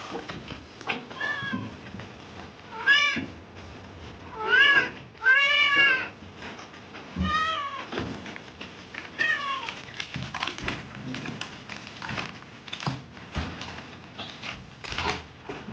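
Domestic cat meowing about six times in the first ten seconds, each call rising and falling in pitch, the longest and loudest near the middle. The cat is being given a bath. Light knocks and clatter run underneath.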